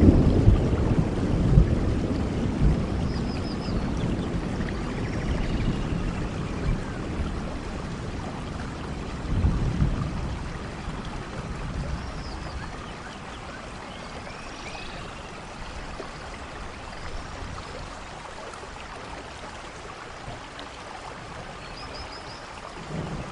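Rolling thunder, a low rumble that slowly dies away with a second swell part-way through, over a steady wash of rain; small birds chirp faintly now and then.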